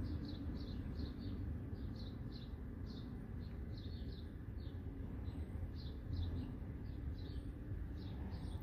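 Small birds chirping: short high chirps, two or three a second, over a low steady rumble.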